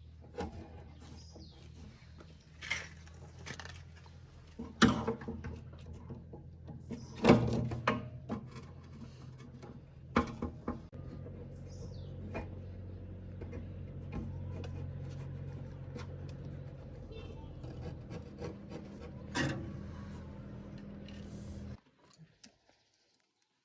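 Several sharp knocks and scattered clatter over a steady low hum; everything cuts off suddenly near the end.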